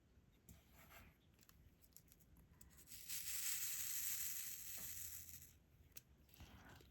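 Faint handling of diamond painting supplies: a few light clicks, then a steady high rustling hiss that starts about three seconds in and lasts about two and a half seconds.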